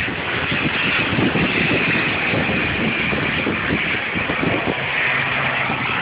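Small turboprop plane's engines and propellers running in a steady, loud drone as it lands, with wind buffeting the microphone.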